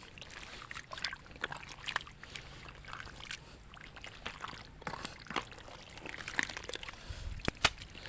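Irregular small splashes and trickling in the shallow water of a nearly drained fish pond, the sound of stranded fish flapping and flicking water, with a sharper knock near the end.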